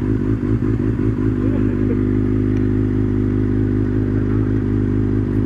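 Kawasaki ZX-6R's inline-four engine idling steadily at an even pitch.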